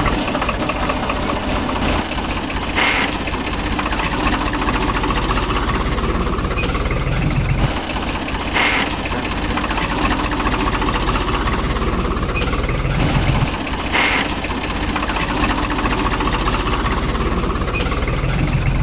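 Tractor engine running steadily, with a few brief surges spaced several seconds apart.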